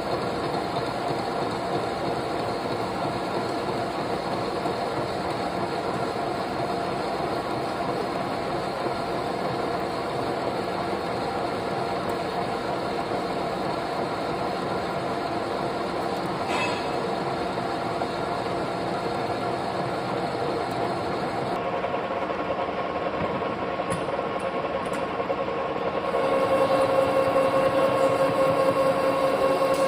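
Metal lathe running steadily, a machine hum with several steady whining tones. About 26 s in it gets louder and the pitch of the whine changes.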